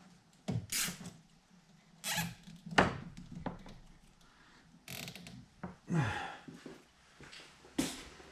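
A series of separate thunks and knocks from the parts of a Ryobi benchtop drill press being handled, about five of them, some with a short scraping hiss.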